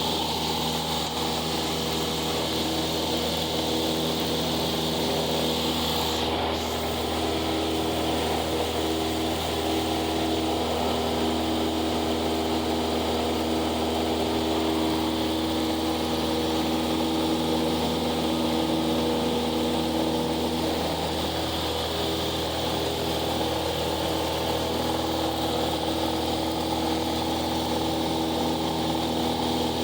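Cessna 172's piston engine and propeller droning steadily at constant power, a level, unchanging hum.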